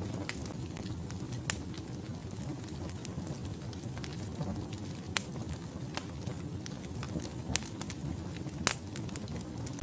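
Wood fire burning in a fireplace: a steady low rumble of flames with scattered sharp crackles and pops from the logs, the loudest pops about 1.5, 5, 7.5 and 8.5 seconds in.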